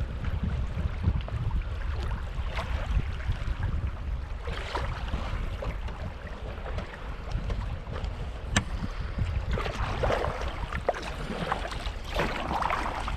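Kayak paddle blades dipping and splashing in lake water every second or few, over a steady low rumble of wind on the microphone.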